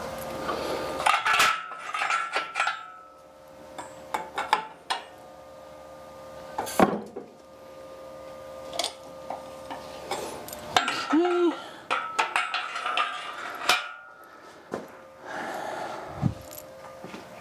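Irregular metallic clinks and knocks of tools and metal parts being handled during machine setup, over a faint steady hum.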